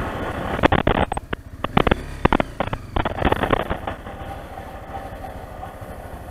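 Honda dual-sport motorcycle climbing a rough dirt hill, its engine running under load. Through the first three seconds or so a rapid series of sharp knocks and clatters comes as the bike jolts over rocks and ruts, then the engine and wind noise run on more evenly.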